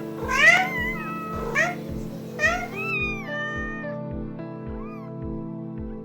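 Cats meowing: a string of rising-then-falling meows, most of them in the first three seconds, with fainter ones later. Background music with a steady beat plays underneath.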